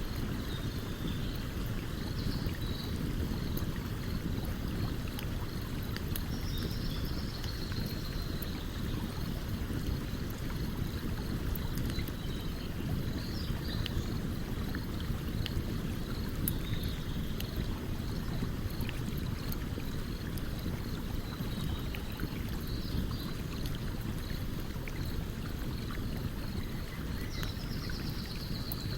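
Steady rush of a flowing stream with a campfire crackling over it in scattered small pops. Brief high chirps recur every few seconds.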